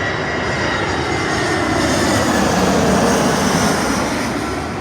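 Jet airliner passing low overhead on its landing approach. A loud engine rumble and whine swells to its loudest about three seconds in, then drops in pitch as the plane goes past.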